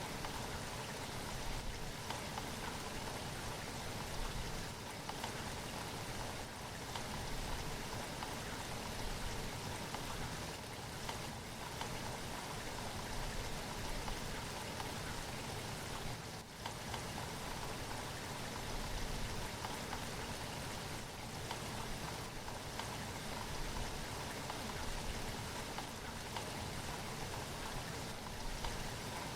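Steady rainfall: an even hiss of dense raindrops on a surface, dipping briefly a little past halfway.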